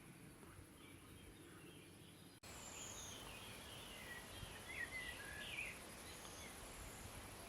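Faint countryside ambience with small birds chirping several times in the second half. The background hiss steps up abruptly about two and a half seconds in.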